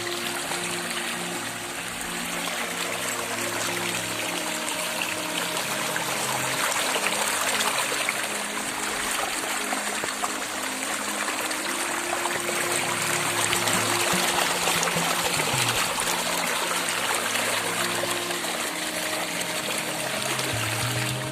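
Running water trickling steadily, under background music of held low notes.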